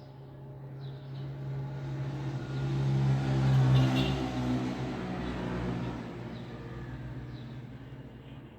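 A road vehicle drives past, its engine and tyre noise growing louder to a peak about four seconds in, then fading away. Faint bird chirps sound in the background.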